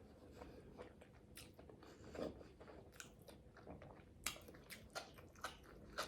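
Faint close-miked chewing and biting of crisp-cooked asparagus: soft crunches and wet mouth clicks, scattered irregularly, with a few sharper crunches in the second half.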